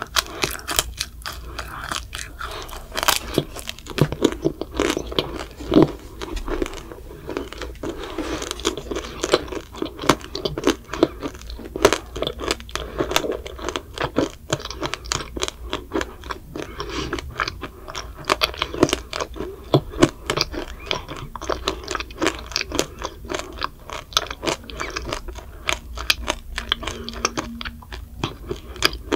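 A child biting and chewing a candied macaron (macaron tanghulu): its hard sugar glaze cracks and crunches in a rapid, irregular run of small crackles as it is chewed.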